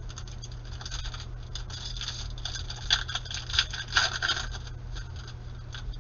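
Trading-card pack and cards being handled: a dense run of crisp crinkling and crackling, loudest in the middle, as a foil pack is opened and the cards are rustled.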